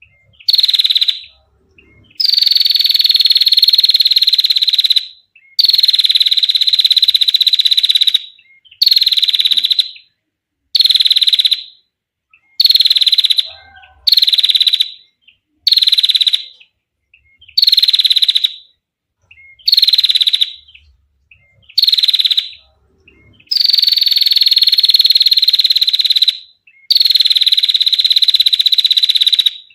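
Female prinia (prenjak) giving clear trilling calls (ngetir): about a dozen high, slightly falling bursts, most about a second long and a few drawn out to around three seconds, with short silent gaps between them.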